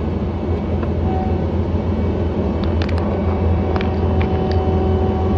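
John Deere 317 skid steer's diesel engine running steadily, with a few light clicks and rattles and a steady whine that sets in about three seconds in. The owner says the skid steer sounds a little weird.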